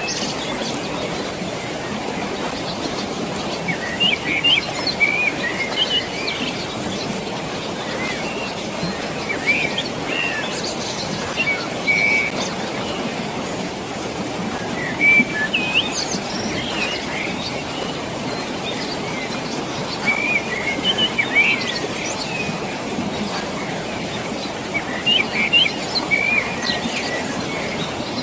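Steady rush of flowing water with birds chirping over it in short clusters every few seconds.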